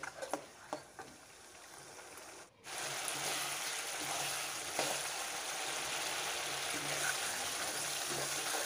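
Onion-tomato masala, with curd stirred in, sizzling in oil in a metal kadhai while a steel spoon stirs it. At first there are only a few light spoon clicks; about two and a half seconds in, a steady frying hiss starts abruptly and continues, with the odd scrape of the spoon.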